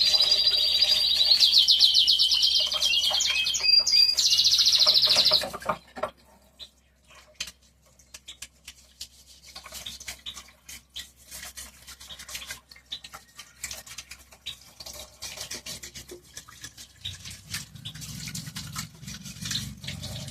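Small songbirds singing loudly in a fast, high trill that cuts off abruptly about five seconds in. After that, soft scrubbing and clicking of a brush working over plastic washing-machine parts, with a low hum near the end.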